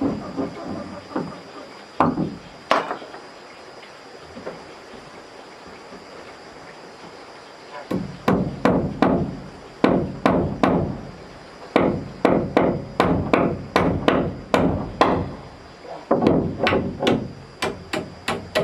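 Hammer blows on wood, as in nailing up timber for a wooden house wall: a few strikes at the start, a pause, then steady runs of blows, about two to three a second, through the second half.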